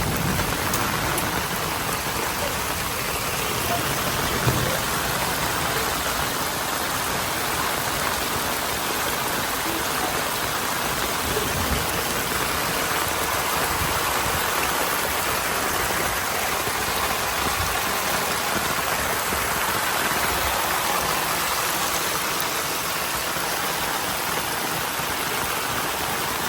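Storm rain falling steadily, an even hiss of heavy rain.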